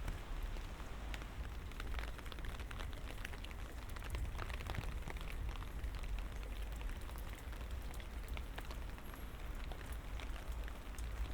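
Light rain: scattered drops ticking and pattering in a steady hiss, over a steady low rumble.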